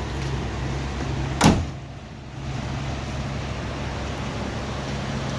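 A single sharp latching clunk from a pickup truck about a second and a half in, over a steady low hum.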